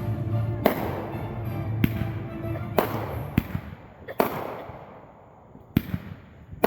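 Fireworks going off: about seven sharp bangs at irregular intervals of roughly a second, each followed by a fading, echoing tail.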